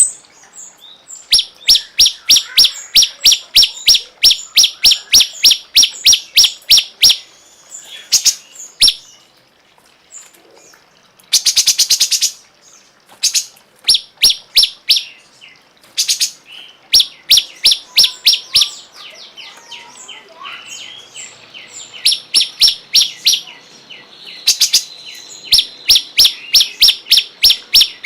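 Cungkok bird singing in long runs of sharp, repeated notes, about four a second, broken by short pauses and a dense, rapid trill about eleven seconds in.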